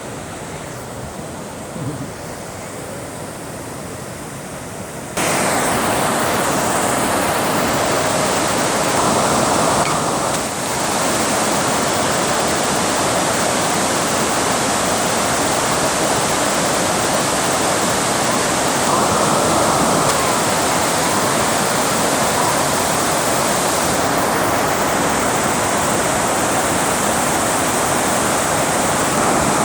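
Water pouring over a dam, a steady rushing of falling water that jumps suddenly louder about five seconds in.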